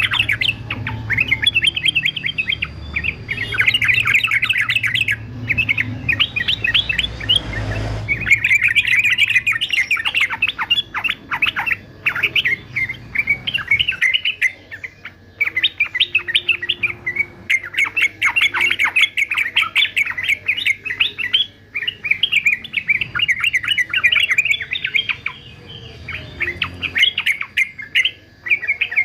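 Male yellow-vented bulbul singing a rapid, chattering song of short bubbly notes, nearly continuous with brief pauses.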